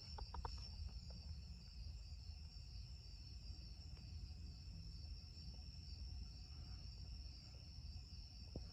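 Hampton Bay Huntington II ceiling fan running on low speed: a faint, steady low hum, with a thin steady high-pitched tone over it and a few faint ticks in the first half second.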